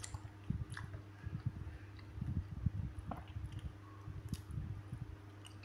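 Close-up chewing of soft fruit (papaya), a run of irregular mouth sounds with a few faint clicks, over a steady low hum.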